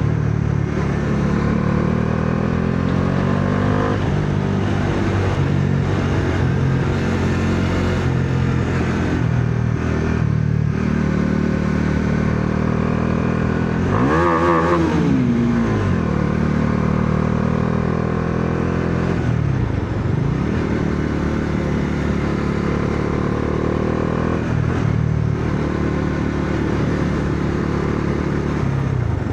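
Bajaj Dominar 400's single-cylinder engine pulling hard under way, its pitch climbing as the rider accelerates and falling as he eases off through the curves. About halfway through the revs dip and then shoot up sharply before settling again.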